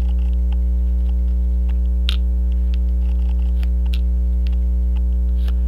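Loud steady electrical mains hum with a stack of harmonics, over a few faint, light clicks of tweezers and small metal watch parts being picked up and set down.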